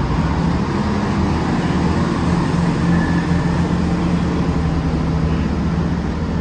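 Chiltern Railways diesel multiple unit's underfloor diesel engines running loud and steady with a constant low hum as the train pulls away from the platform.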